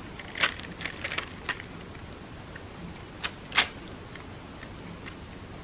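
Crepe paper being handled: a few short crinkles and clicks, the clearest about half a second in and again near the middle.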